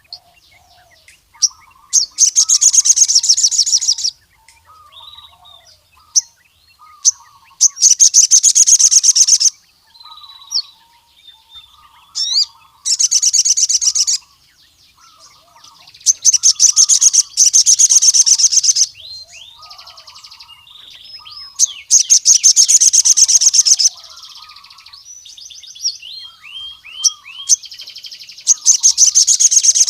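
Male sogon (crimson sunbird) singing loud, very rapid high-pitched trills of one to three seconds each, repeated every few seconds. Short chirps and softer low twittering notes fall between the trills.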